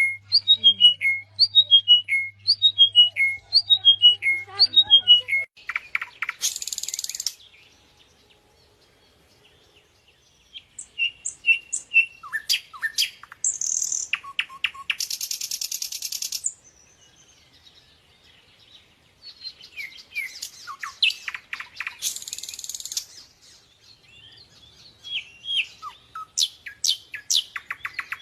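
Small birds chirping and singing: a quick series of repeated falling chirps at first, then scattered chirps broken by short harsh rasping calls several times, with a brief quiet pause partway through.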